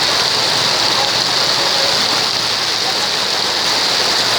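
Heavy rain pouring down: a loud, steady hiss of a downpour.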